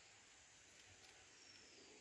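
Near silence: faint open-air background hiss.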